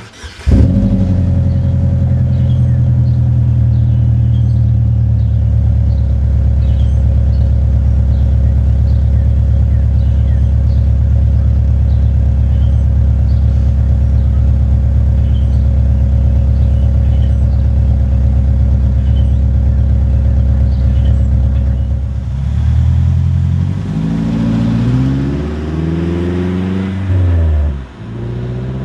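Exhaust of a 2008 Chevrolet HHR with a JBP aftermarket header: the Ecotec inline-four comes in abruptly about half a second in and idles steadily and loudly for about twenty seconds. It is then revved up and down several times in quick blips.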